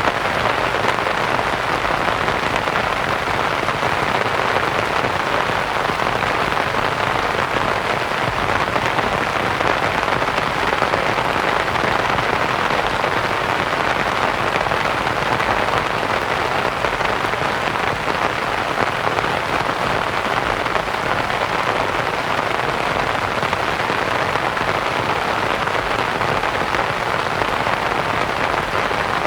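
Steady rain pattering on a canvas tent, mixed with white noise into an even, unbroken hiss.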